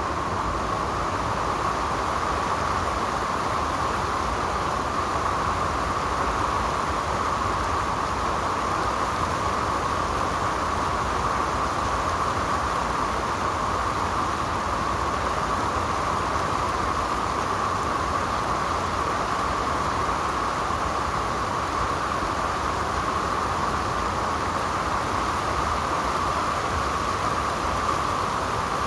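Valley stream water rushing steadily: an unbroken hiss with no pauses or changes.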